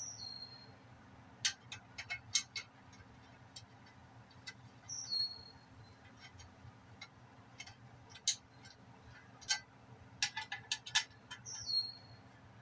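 Scattered metallic clicks and taps of hand tools and bolts while a cover plate is refitted, coming in irregular clusters. A short high chirp that falls in pitch sounds three times, about six seconds apart.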